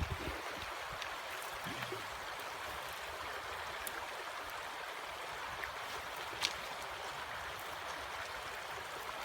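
Steady rushing of a shallow river running over stones, with a small click now and then.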